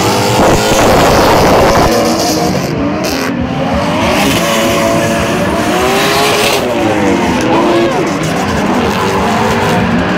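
A pack of drift cars running together, several engines revving up and down at once over the hiss and squeal of sliding tyres.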